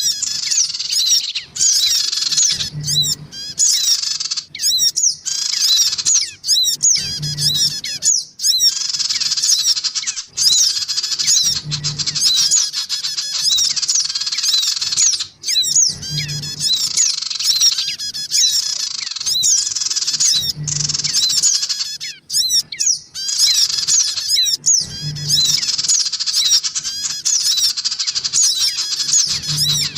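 Sogon birds, adults and young, chirping and squawking excitedly in a dense, busy chorus of rapid high calls. A brief low sound recurs about every four and a half seconds, as the recording loops.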